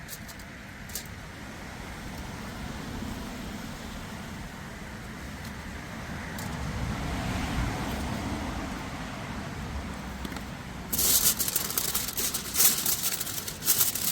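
A steady low rumble, then about eleven seconds in, loud crackling and clicking noise starts abruptly and carries on.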